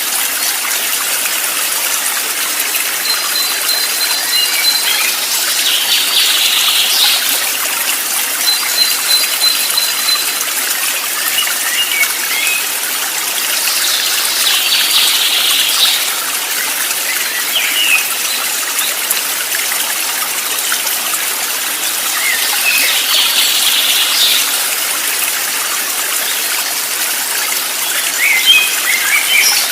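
Running water with a steady rushing hiss, and small birds calling over it: bursts of chirping every several seconds, two rapid high trills, and scattered short chirps.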